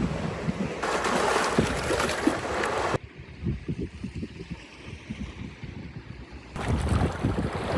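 Outdoor wind and water noise, with wind buffeting the microphone, cut abruptly between takes. A loud hiss runs for the first three seconds, then drops suddenly to a quieter stretch of soft low knocks, and the loud hiss returns near the end.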